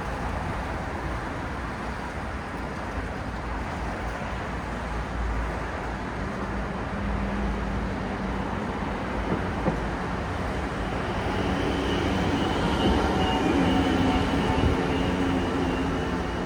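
City street traffic: a steady rumble of passing vehicles, with a large vehicle passing closer and louder over the last few seconds, carrying a steady hum.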